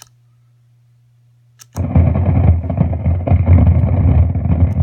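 Echo Royale delay pedal through a guitar amp: a low hum and a couple of clicks as the pedal is tapped, then about two seconds in a loud crackling, rumbling noise bursts out of the amp. It is a fault the owner suspects is a bad pot.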